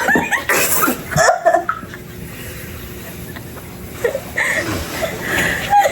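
People laughing in short bursts, mixed with coughing, as someone struggles to swallow a liquor in a blind taste test. The laughter comes in two spells: one at the start and another from about four seconds in.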